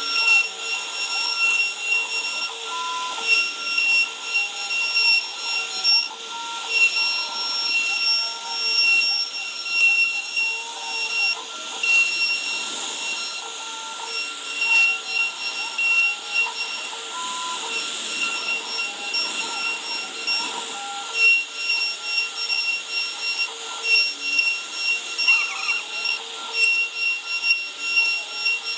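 CNC router carving wood: a steady high spindle whine over the rasping noise of the cutter in the wood, with short tones that slide up and down in pitch as the machine works.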